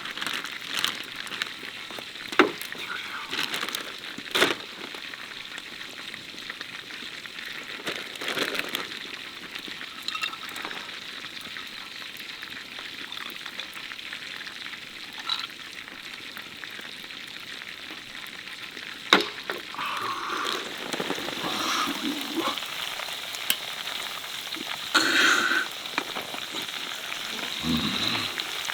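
Fried rice sizzling in chicken fat in a pan over a campfire, a steady hiss broken by sharp clicks and knocks now and then as it is stirred.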